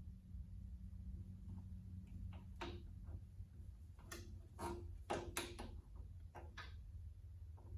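Irregular metallic clicks and taps of hand tools working on bolts, over a steady low hum.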